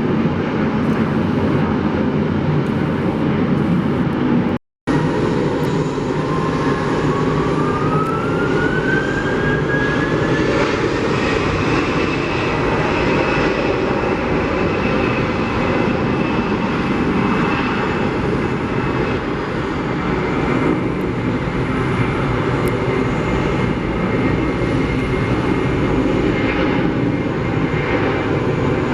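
Jet airliner engines running with a loud, steady rumble. After a brief dropout about five seconds in, a whine rises in pitch over a few seconds and then holds steady.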